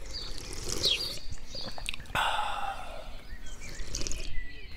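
Birds chirping, with a quick falling call about a second in. A louder, rushing sound that falls in pitch comes about two seconds in.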